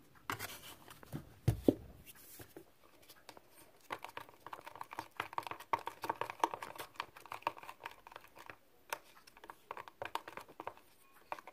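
Handling noise from slime-making, as the glue mixture is readied for activation with baking soda: a low thump about a second and a half in, then irregular small clicks and crinkly rustling.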